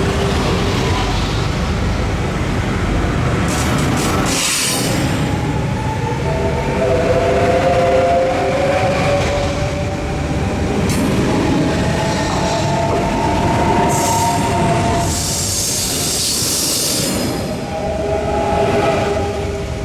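Train in the station, with a steady low rumble and several tones slowly rising in pitch over about ten seconds, and bursts of high hiss about four seconds in and again around fifteen seconds in.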